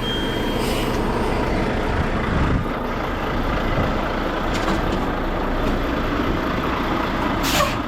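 Semi-truck diesel engine running steadily, with a few short bursts of hiss; the clearest comes near the end.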